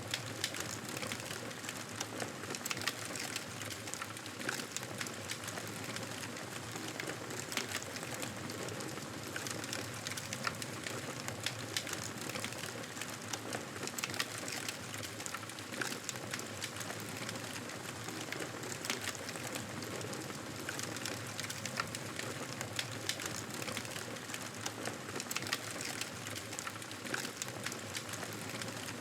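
Wood fire crackling in a fireplace: a steady hiss with many small irregular pops and snaps.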